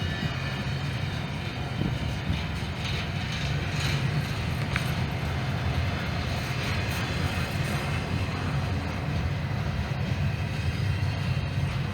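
Norfolk Southern freight train rolling past steadily, its wheels rumbling on the rails with a few faint clicks.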